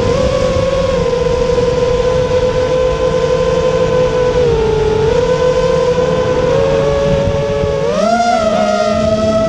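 GEPRC Stretch X FPV quadcopter's motors and propellers whining steadily. The pitch shifts slightly with the throttle, and about eight seconds in it climbs higher and holds there.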